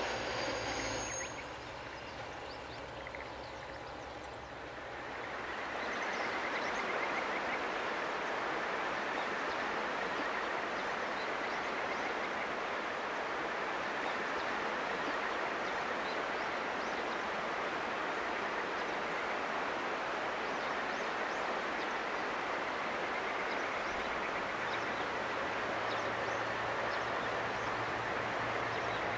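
The sound of a passing train dies away in the first second or two. From about five seconds in, a steady, even rushing noise sets in and holds throughout, with a faint low hum joining near the end.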